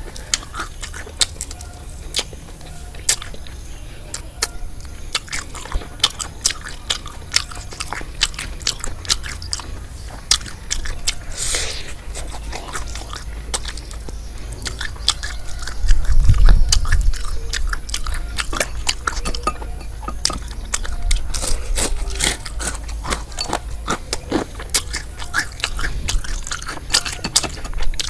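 Close-up chewing and crunching of deep-fried battered frog, with many sharp crisp crunches as pieces are bitten and chewed. A brief low rumble a little over halfway through is the loudest moment.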